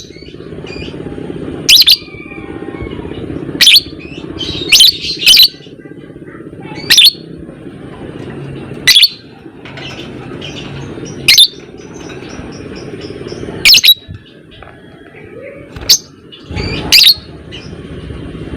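Lovebird giving short, shrill, piercing calls, about one every two seconds, some in quick pairs, over a steady low background hum.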